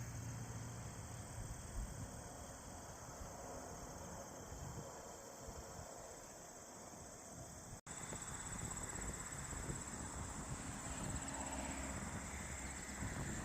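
Steady high-pitched insect chorus, typical of crickets, over a soft outdoor hiss. It drops out for an instant about eight seconds in and resumes a little higher.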